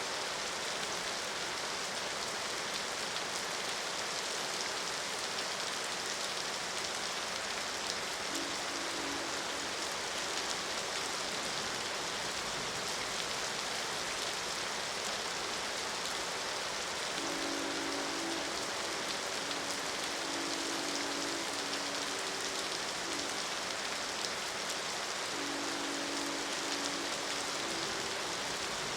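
Steady rain, with a distant train horn sounding a low chord three times: briefly about eight seconds in, as a longer broken series of blasts from about seventeen seconds in, and once more near the end.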